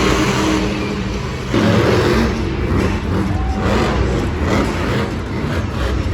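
Monster truck engine revving, its pitch rising and falling, with a jump in loudness about a second and a half in.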